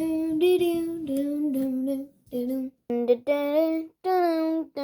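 A child's voice singing a wordless tune: one long held phrase for about two seconds, then a run of shorter held notes broken by brief pauses.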